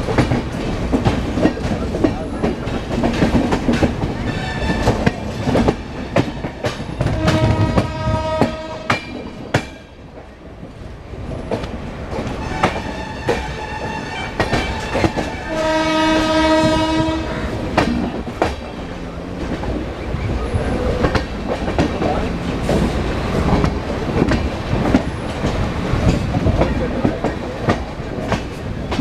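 Continuous rumbling and clattering with many sharp clicks, cut twice by a long pitched horn blast, once about seven seconds in and again, stronger, about sixteen seconds in.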